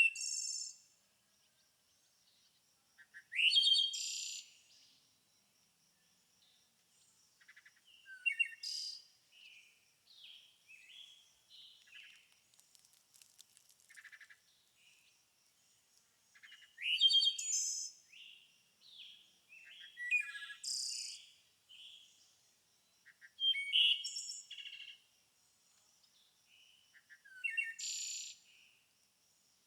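Songbirds singing: a loud burst of varied, sweeping song every three to four seconds, with softer chirps and twitters in between.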